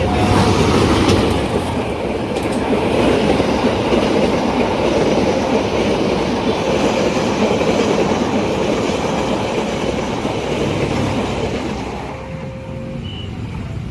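A long train passing close by, its wheels running on the rails in a loud steady rush that eases off about twelve seconds in as the train moves away.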